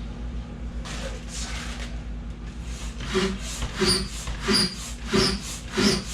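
Large hand air pump inflating an inflatable kayak's tube, worked in regular strokes about one and a half per second, starting about three seconds in.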